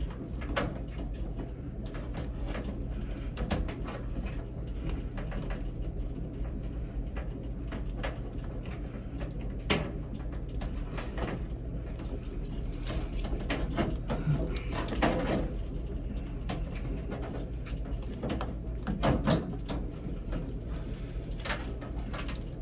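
Scattered clicks and knocks of a washer water inlet valve and its plastic fittings being handled and refitted, over a steady low hum, with a few longer low sounds past the middle.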